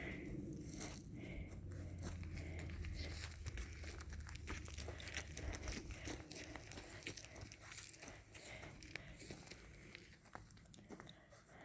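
Dry crunching and crackling made of many small, irregular clicks, with a low rumble under it that fades out about halfway through.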